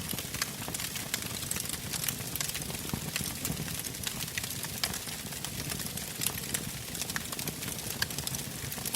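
Wood campfire burning, with irregular sharp pops and crackles over a low steady rumble of the flames.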